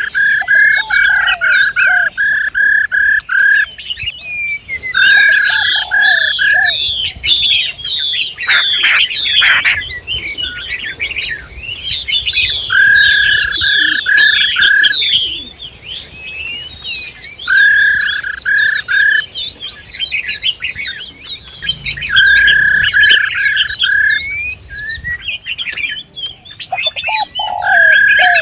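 Songbirds calling: runs of quick, even chirps on one pitch, each run lasting a second or two, alternate with fast, high twittering.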